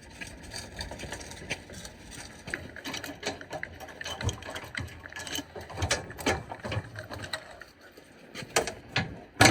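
Irregular clicking, rattling and knocking of gear being handled, with one loud sharp knock near the end.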